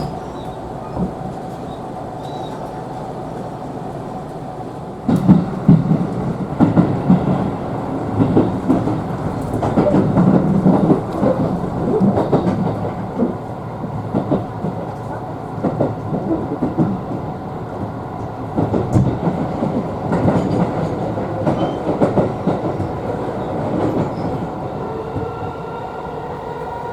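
JR commuter train running on the Yamatoji line, heard from inside the carriage: a steady rumble that grows louder about five seconds in, with the wheels clattering irregularly over rail joints and points.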